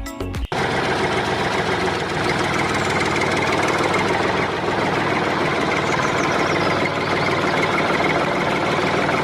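An engine or motor running steadily, cutting in suddenly about half a second in.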